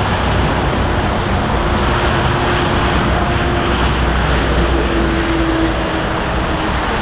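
Airbus A340-300's four CFM56 jet engines running, a steady loud rumble with a faint wavering hum in the middle.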